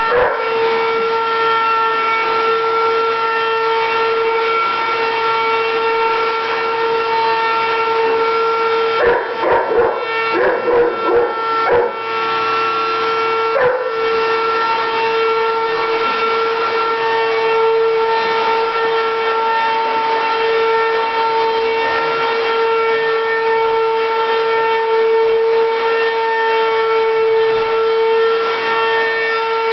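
Vacuum cleaner running steadily with a constant whine, while a dog barks in a quick flurry of sharp barks about nine to twelve seconds in and once more shortly after.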